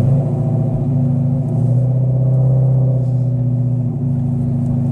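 Chrysler 300's Hemi V8 with an aftermarket exhaust, running steadily under way with a loud, low droning hum that shifts pitch slightly a couple of times.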